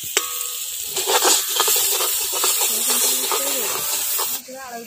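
Chopped onions and tomatoes sizzling in hot oil in a kadai, stirred with a long perforated metal ladle that clicks and scrapes against the pan. Quiet voices talk underneath.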